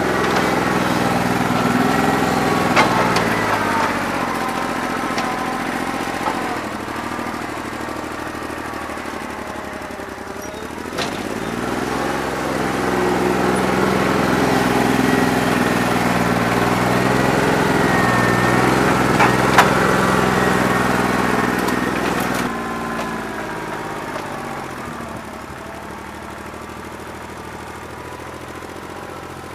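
New Holland 1320's three-cylinder diesel running, its engine speed rising and falling with a few sharp knocks. A bad injector leaves it running on about two and a half cylinders. A little past two-thirds of the way in, it drops back to a lower, quieter speed.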